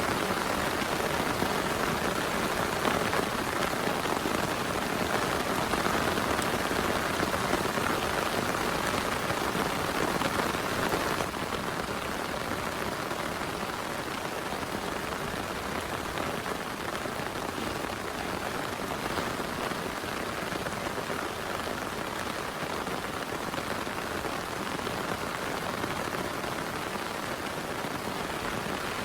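Heavy rain falling steadily as a dense, even hiss, which drops a little quieter about eleven seconds in.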